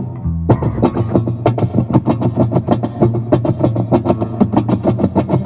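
Electric guitar playing a fast, even run of picked notes, starting about half a second in, over a low sustained tone.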